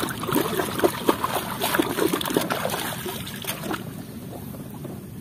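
Water splashing and dribbling as plastic toy vehicles are washed by hand, with many small irregular splashes and knocks that die down near the end.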